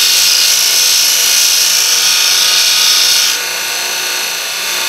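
Belt sander running, grinding down a fresh weld on a metal handlebar. The grinding sound drops suddenly about three seconds in and goes on more quietly.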